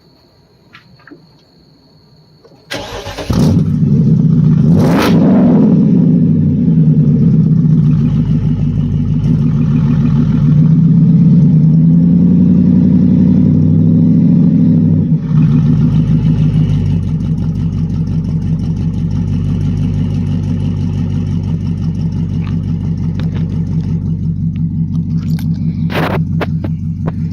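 BMW 750Li V8 starting about three seconds in through an exhaust with all its resonators removed: it flares up, runs at a fast idle for about ten seconds, then settles to a steadier, lower idle. A brief sharp sound near the end.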